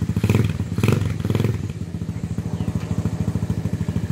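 Apollo DB007 125cc dirt bike's single-cylinder four-stroke engine idling with a steady, even pulse, choke off, the idle holding without needing the idle screw adjusted. Three brief louder surges come in the first second and a half.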